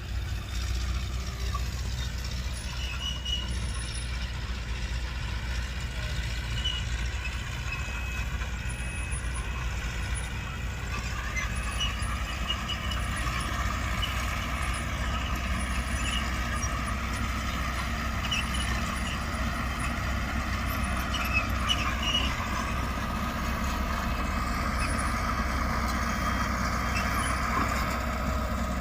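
Diesel engine of heavy earthmoving machinery running steadily, its pitch rising about ten seconds in as it works harder, with light squeaks above it.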